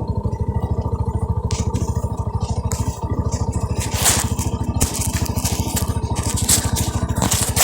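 Bajaj Boxer motorcycle's single-cylinder engine running steadily, with an even beat. From about a second and a half in, irregular crunching and scraping noises come over it.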